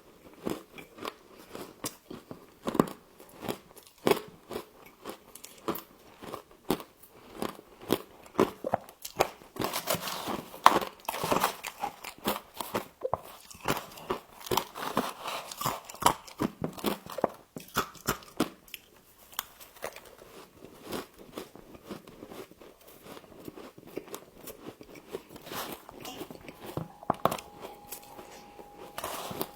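Humidifier frost being bitten and chewed close to the microphone: a dense run of sharp, crackly crunches. A faint steady tone comes in near the end.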